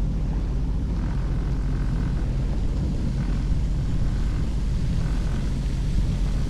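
Sea-Doo jet ski running steadily underway, a loud low rumble with faint tones that come and go.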